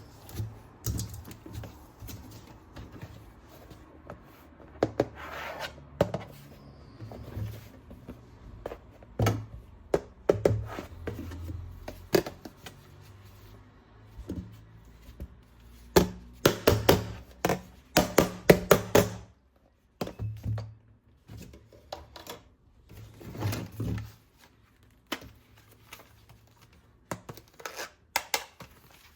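Handling sounds of unpacking plastic toy guns: irregular clicks, knocks and rustles of plastic parts and packaging, with a dense run of sharp knocks about two-thirds of the way through.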